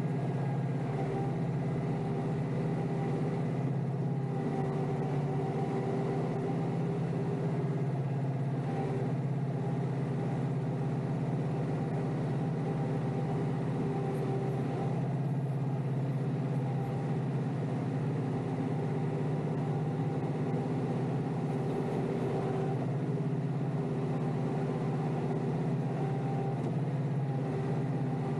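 Kioti DK5320SE compact tractor's diesel engine running at a steady speed, its pitch holding constant throughout.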